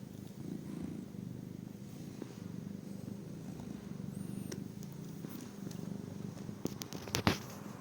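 A domestic cat purring steadily and close up. Near the end come a few sharp clicks and one louder knock.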